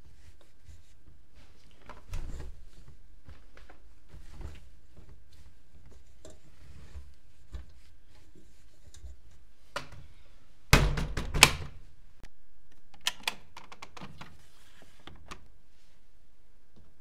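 Privileg Multispar 5110 front-loading washing machine giving scattered thunks and clicks, the loudest a sharp double knock about two-thirds of the way through.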